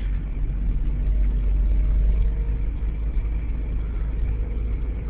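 Car engine running and steady low road rumble heard from inside the moving car's cabin.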